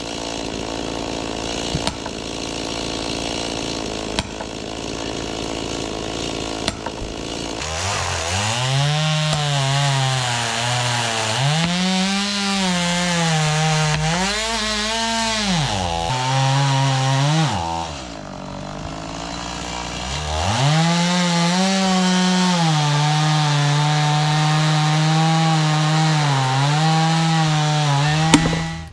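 Gas chainsaw cutting into a large oak round. After several seconds of lower, steadier noise the engine revs up, its pitch rising and sagging as the chain loads and clears in the wood. It drops back briefly about two-thirds through, then revs high again and stops just before the end.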